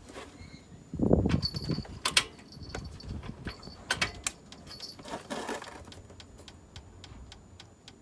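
Scattered clicks, knocks and light metallic clinks from parts or tools being handled, with a cluster of louder thuds about a second in and a short rustle about five seconds in; no engine running.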